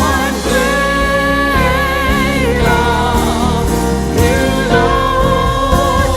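Live worship music: a singer holds long, wavering notes over a full band, with a steady bass underneath.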